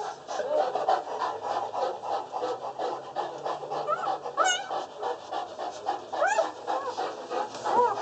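Newborn Boerboel puppies squeaking and whimpering in a constant run of short cries, with three louder, higher rising squeals in the second half.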